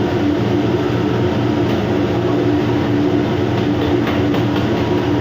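Steady, loud mechanical drone with a constant low hum: the machinery and ventilation noise of a ship's galley. A few faint clicks come near the end.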